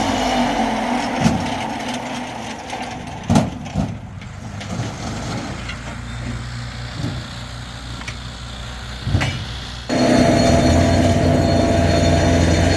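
A steady motor hum fades away over the first couple of seconds, leaving a quieter stretch broken by a few sharp knocks. About ten seconds in, the hum cuts back in abruptly and loud.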